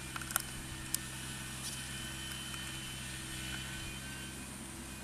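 Kubota DC-35 combine harvester's engine running at a steady speed, with a few sharp clicks in the first second.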